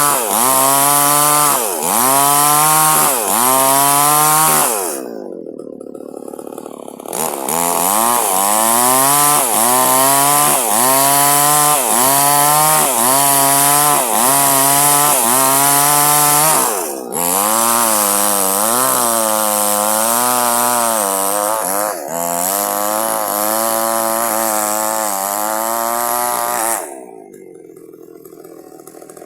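Two-stroke chainsaw cutting durian wood, its engine pitch rising and dipping about once a second as the chain bites into the log. About five seconds in it drops to idle for a couple of seconds, then cuts again, and near the end it drops back to idle.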